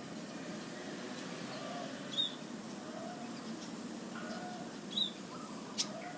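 Zebra dove (perkutut) calling in the wild, with soft low coo notes repeating over steady outdoor background. Two short high chirps come about two and five seconds in, and a sharp click near the end.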